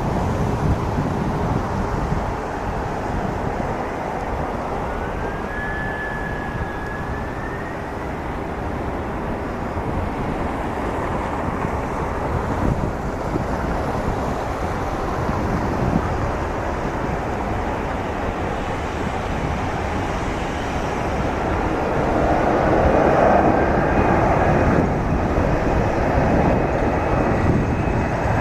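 Boeing 767-300ER's twin jet engines at takeoff power, a steady roar with wind noise on the microphone. A faint rising whine comes in about five seconds in, and the roar grows louder about 22 seconds in.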